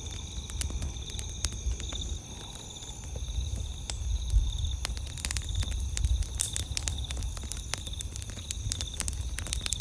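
Wood campfire crackling with frequent irregular sharp pops and snaps, over a steady high pulsing chirring of night insects.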